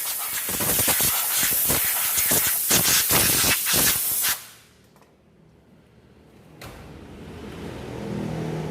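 Loud pressurised hissing spray in rapid spurts that cuts off sharply about four seconds in. A low hum rises near the end.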